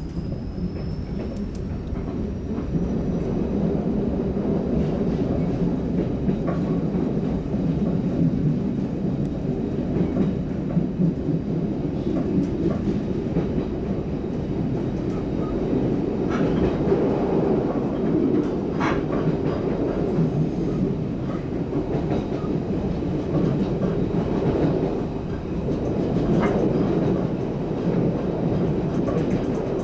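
Passenger train running along the track, heard from inside the carriage: a steady rumble of wheels and car body that grows louder over the first few seconds, with scattered sharp clicks from the wheels on the track.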